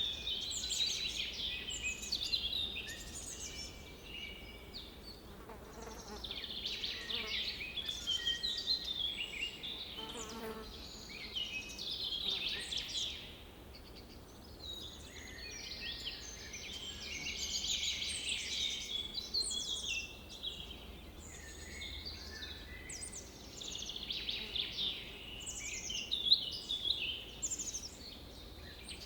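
Several wild birds singing at a lakeshore, a dense mix of chirps and trills that swells and fades in waves every few seconds, with a brief low buzz about ten seconds in.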